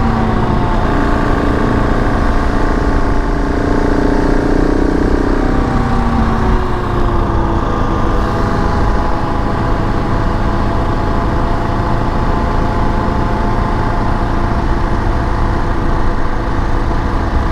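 KTM 690 Enduro R's single-cylinder engine running at road speed. Its note drops about five to six seconds in as it eases off, then holds steady, over a heavy low rumble of wind on the microphone.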